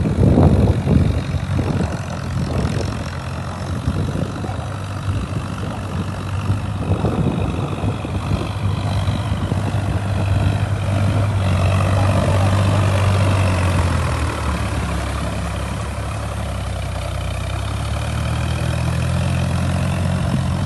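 An engine running steadily at idle, with a few knocks in the first couple of seconds.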